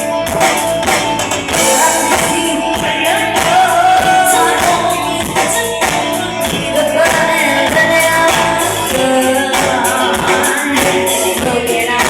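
Live band playing a song through an amplified sound system: singing over a steady drum beat and guitar.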